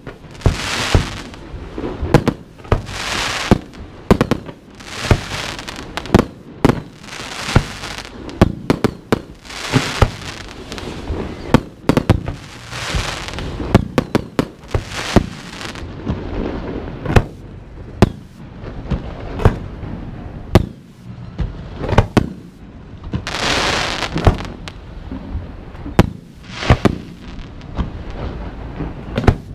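Consumer fireworks show of aerial shells and cakes going off: a dense run of sharp bangs, about one a second, with a hiss that swells and fades between them.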